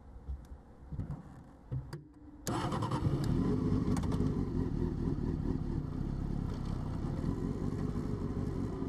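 A few faint clicks and knocks, then about two and a half seconds in a motorcycle engine starts and settles into a steady idle.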